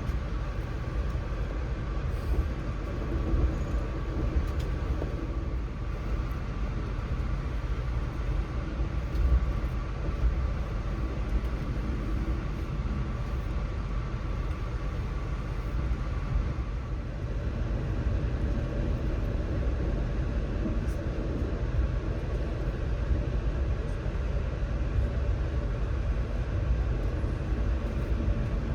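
Steady low rumble of a moving passenger train heard from inside the car, with faint steady tones and occasional light clicks and rattles.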